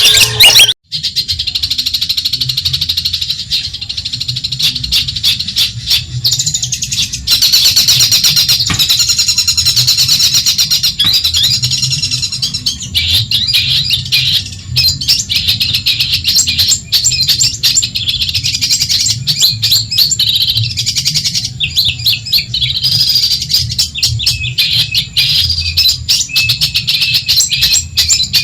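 Long-tailed shrike (cendet) singing a rapid, dense, continuous chattering song of high notes, after a brief break just under a second in, over a steady low hum.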